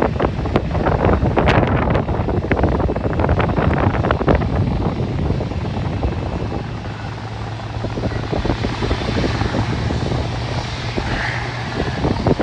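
Jet aircraft engines running, a steady low hum joined by a higher engine whine that builds through the second half. Wind buffets the microphone with crackling gusts in the first few seconds.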